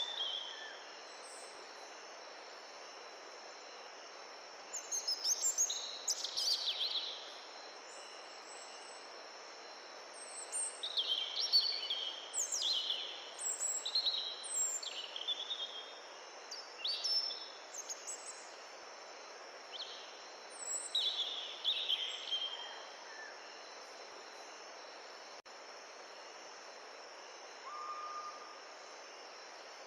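Songbirds singing in bursts of quick, high, falling notes over the steady rush of a mountain stream, with a steady high insect trill. A short, lower whistled note comes near the end.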